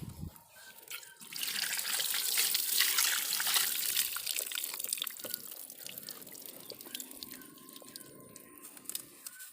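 Water splashing onto a motorcycle engine. It is heaviest for about three seconds starting a second in, then eases to a softer trickle with scattered drips.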